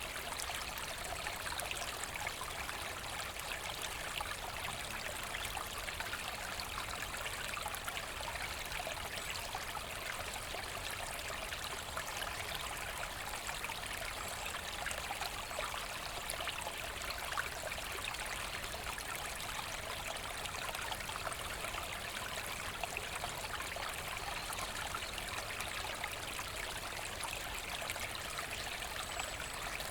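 A forest brook running over stones with a steady babble and trickle.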